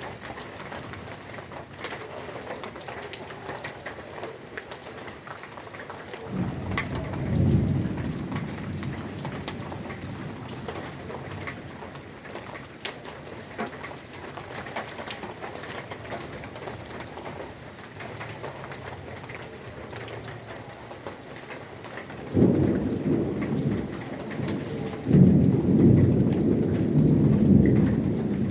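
Heavy rain falling steadily, with thunder rumbling twice: a short rumble about six seconds in, then a longer, louder one starting past the twenty-second mark and building toward the end.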